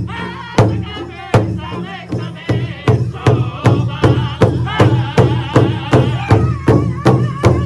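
Pow wow drum group singing in high-pitched unison over a big drum struck together by the singers. The beats are spaced out at first, then settle into a steady beat of about three a second a couple of seconds in.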